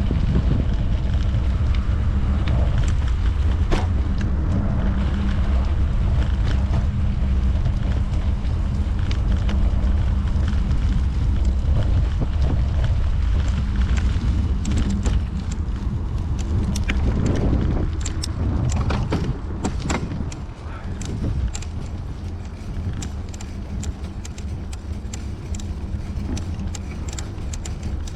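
Wind rumbling on the microphone of a camera carried on a moving bicycle. From about halfway through, many short clicks and rattles come through, and the wind noise eases somewhat about 20 seconds in.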